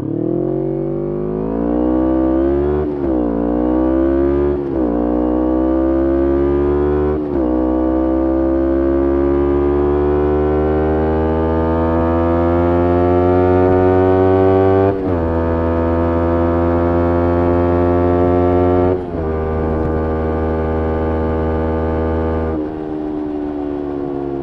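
Kawasaki Ninja 250R parallel-twin through a full Graves race exhaust, accelerating through the gears. The pitch climbs steadily with sharp drops at quick upshifts about 3, 5, 7 and 15 seconds in. It then holds steady and eases off near the end.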